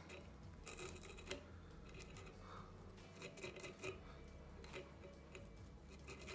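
Faint handling noises at a fly-tying vise: scattered small clicks, ticks and rustles of tools and materials being picked up and worked by hand.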